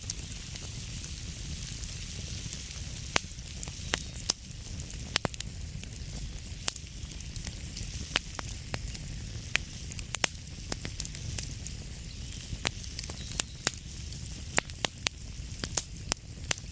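Wood fire burning with a steady hiss and low rumble, and irregular sharp crackles and pops throughout.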